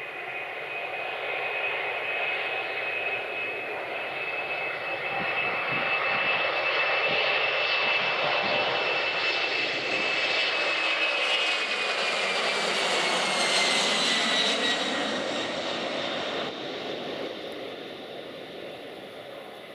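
Boeing 767-300 jet airliner taking off, its engines running at high power with a steady high whine over a loud rush. A little past halfway the whine drops in pitch as the aircraft passes, and the sound fades toward the end.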